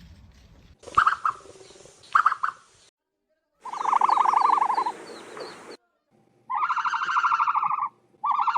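A series of bird calls, spliced together from separate clips: two short calls in the first couple of seconds, then three trilled, rapidly pulsing calls of about one and a half to two seconds each, the first the loudest.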